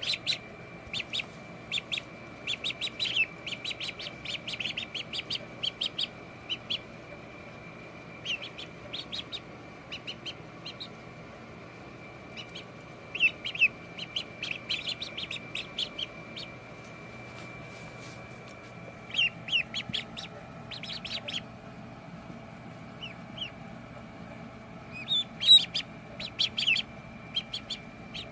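Ducklings peeping: short, high chirps in quick runs, with a few pauses between the bursts.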